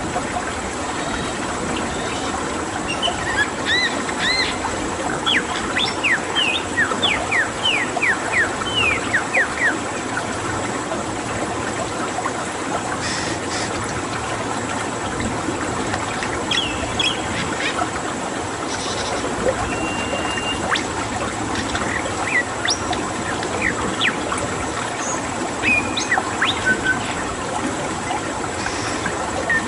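Birds calling in series of short, quick falling whistles over a steady rush of running water. The whistles come thickly for several seconds, thin out midway, then return in the second half.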